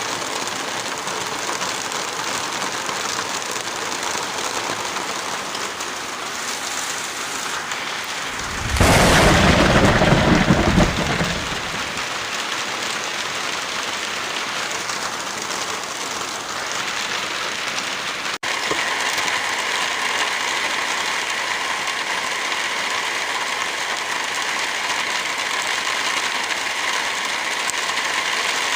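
Steady heavy rain, with a loud, deep clap of thunder about nine seconds in that lasts some three seconds. A brief dropout comes about two-thirds of the way through, after which the rain sounds slightly different.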